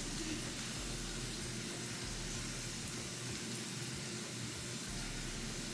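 Faint, steady sizzle of food frying in a pan.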